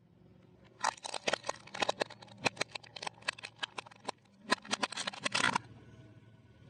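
Rapid, irregular crunching and crackling: a dense run of sharp cracks for about five seconds, with a brief pause partway through, then it stops.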